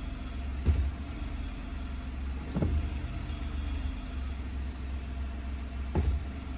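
Suzuki Wagon R (MH23S) engine idling steadily, with three brief sharp knocks: about a second in, near the middle and near the end. This car makes a karakara rattle only at idle, and the rattle comes from inside the exhaust silencer.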